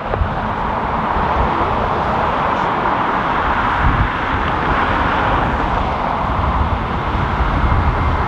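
Airliner jet engines running, a steady rushing noise, with gusty wind buffeting the microphone as an uneven low rumble.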